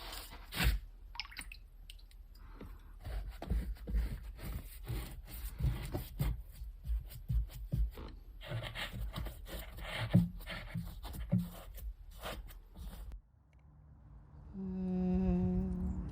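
Close crackling, scraping and tapping of small objects being handled, with many sharp clicks. It stops abruptly about 13 seconds in, and soon after a low sustained humming tone with overtones begins.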